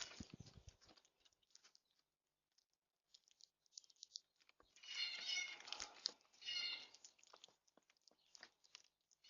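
An animal's high pitched calls, one longer stretch about five seconds in and a shorter one near seven seconds, with faint scattered clicks between them.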